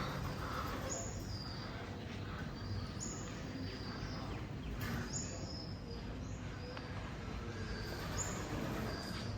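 A bird repeating a short, high two-note call, a higher note dropping to a lower one, about every two to three seconds over steady background noise.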